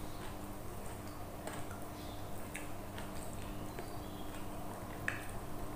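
Close-up eating sounds: a person chewing, with scattered short wet mouth clicks and smacks, a few a second and irregular, the sharpest about five seconds in.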